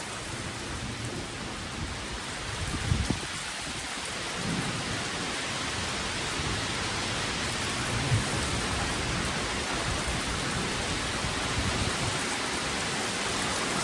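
Steady rain falling during a thunderstorm, with low rumbles of thunder rising out of it, the strongest about three seconds in and weaker ones around four and a half and eight seconds.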